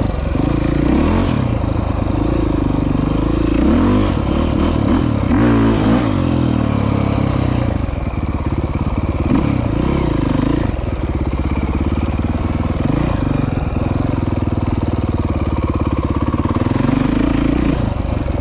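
Dirt bike engine running steadily, its pitch rising and falling several times as the throttle is opened and eased.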